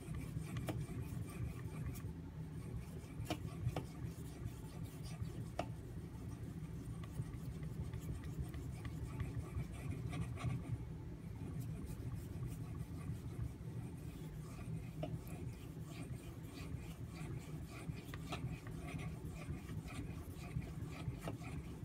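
AUS-8A steel tanto blade stroked over a Shapton Pro 5000-grit waterstone: a steady run of many short, faint scraping strokes for polishing the edge.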